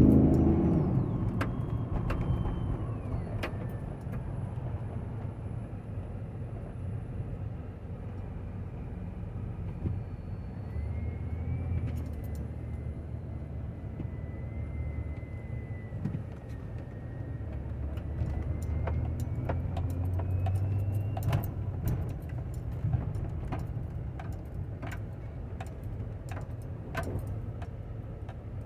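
A motor vehicle, loud at the start and fading over the first few seconds, then a steady low rumble that swells twice, with scattered clicks and rattles.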